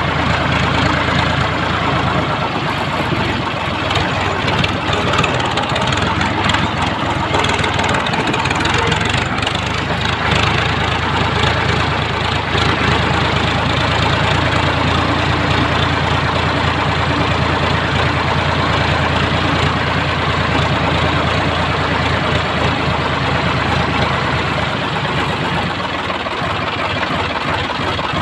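Sonalika DI 745 tractor's three-cylinder diesel engine running steadily, with an even pulsing beat.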